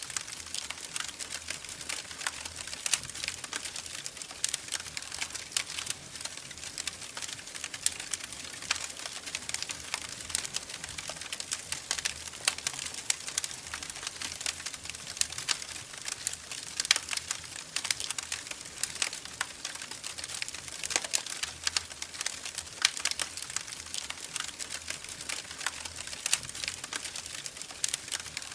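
Wood fire crackling in a fireplace: a dense, irregular run of small snaps and pops, with a few louder pops among them.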